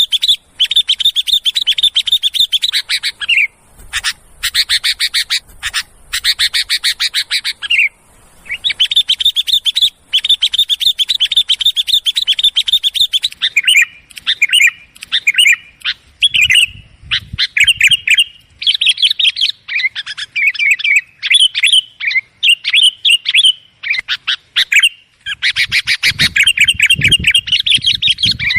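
Sooty-headed bulbuls (kutilang) calling noisily in runs of rapid chattering notes a few seconds long, with short pauses between them. Midway the runs break into shorter, more varied phrases, and a long run returns near the end.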